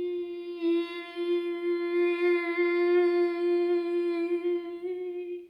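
A person humming or toning one long vocal note, held steady on a single pitch, which stops near the end.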